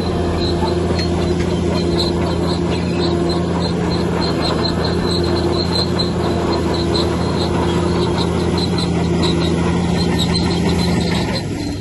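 Heavy diesel engine of a bulldozer or similar earthmoving machine running steadily, with short high squeaks repeating over it. The sound drops and changes near the end.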